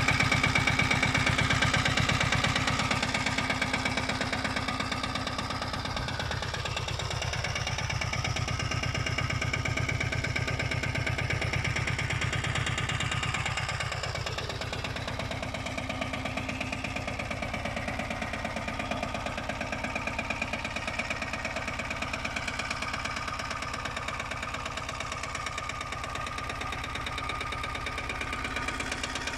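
Lombardini 3LD 510 single-cylinder air-cooled diesel engine on a 622 hay mower, running steadily with an even, rapid diesel knock.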